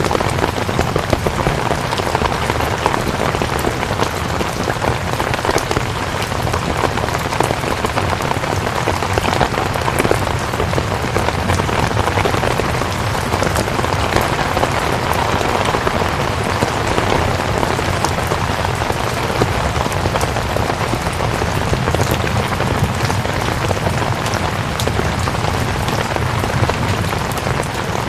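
Steady rain: an even hiss with many small, sharp drop hits scattered through it, holding at one level throughout.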